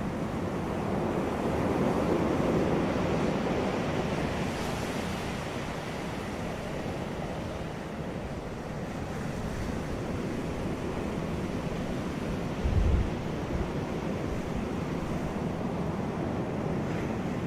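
Ocean surf washing onto a beach, a wave swelling and breaking about two seconds in. A brief low buffet of wind on the microphone about two-thirds of the way through.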